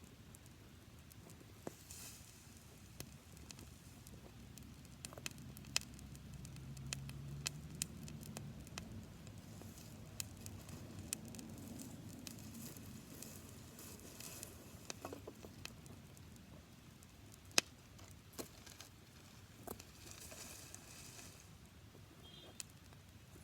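Campfire of dry grass crackling, with irregular sharp pops and snaps over a low rumble of flame, and brief hissing now and then.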